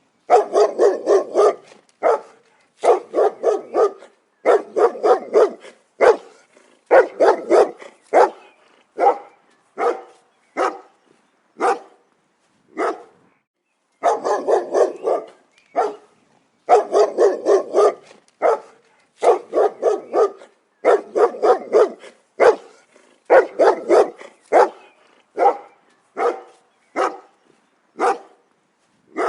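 A dog barking in quick bursts of several barks, one burst every two seconds or so, with a few single barks spaced apart in the middle stretch.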